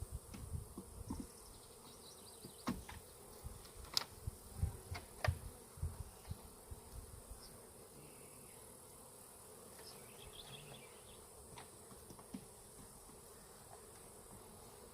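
Honeybees buzzing steadily around a hive that has been knocked over. Scattered knocks and clicks of handling, heaviest in the first half.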